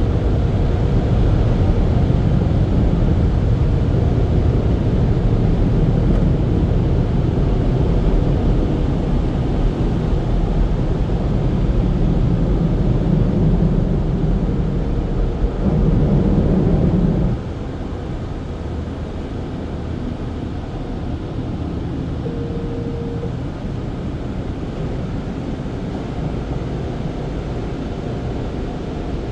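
Automatic car wash equipment running, heard from inside the car as a steady rumble and rush. It drops sharply in level about seventeen seconds in as one stage of the wash ends.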